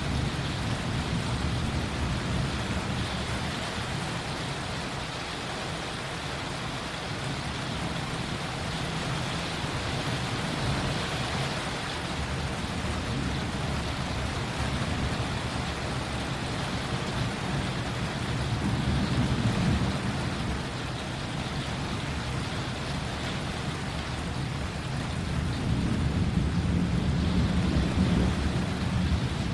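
Steady hiss of rain falling during a thunderstorm, with low rumbles swelling twice: about two-thirds of the way through and again near the end.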